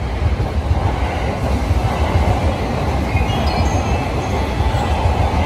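Steady train rumble, heavy in the low end, with a few faint high squeals about three seconds in.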